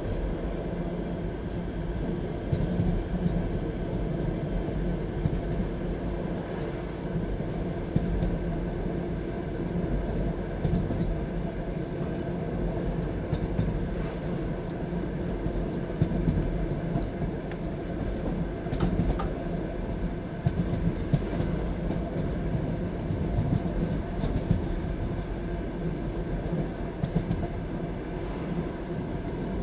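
Passenger train carriage rolling along the track at speed: a steady rumble of wheels on rails, with scattered sharp clacks as the wheels cross rail joints.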